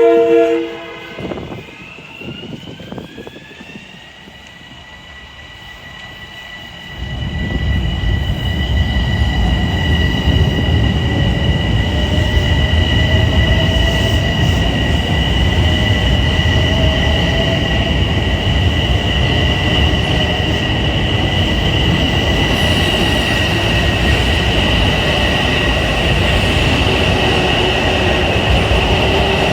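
A Metro-North train at a station. It opens with the end of a horn blast, then a high whine rises in pitch over a couple of seconds and holds steady. From about 7 s a loud, steady rumble of the train's wheels on the rails joins in and continues.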